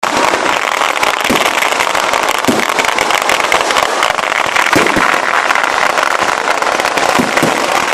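Kerala temple-festival fireworks (vedikkettu) of low-intensity firecrackers going off in a dense, unbroken crackle, with a few heavier bangs standing out, about six in all.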